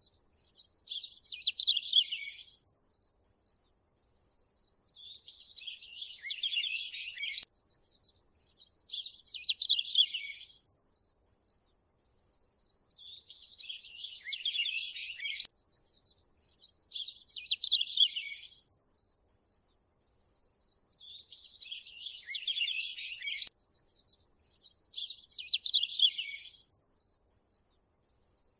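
Nature ambience of birds chirping in short bursts every few seconds over a steady high-pitched hiss, the same pattern coming round about every eight seconds.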